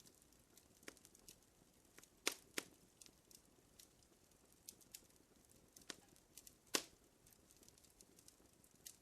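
Fire crackling: faint, with sharp pops and snaps at irregular intervals, the loudest a close pair a little over two seconds in and a single pop near seven seconds.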